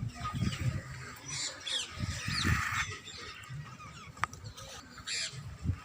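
Birds chirping in short curved calls, over an irregular low rumble, with a single sharp click about four seconds in.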